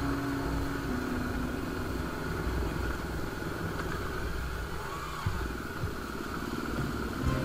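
Bajaj Discover motorcycle's single-cylinder engine running steadily while riding along, with a couple of short knocks a little past the middle.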